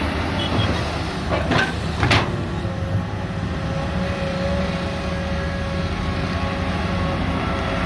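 Hydraulic excavators' six-cylinder diesel engines running under digging load, with two sharp clanks about a second and a half and two seconds in, typical of a bucket striking rock. A steady hydraulic whine joins about three seconds in.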